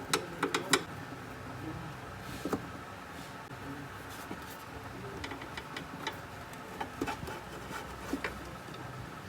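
Scattered sharp clicks and light taps of hands and tools on plastic and metal parts while the fan motor's start capacitor is being removed from an air conditioner's indoor unit, with a cluster in the first second.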